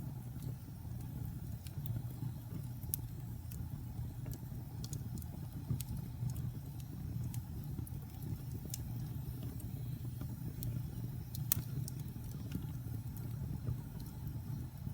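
Wood fire burning in a fireplace: a steady low rumble of the flames with irregular sharp crackles and pops from the burning wood, the loudest pop about eleven and a half seconds in.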